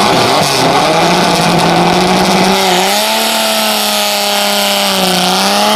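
Dodge Polara's engine being revved. The pitch climbs about halfway through, holds, sags slightly, then climbs again near the end.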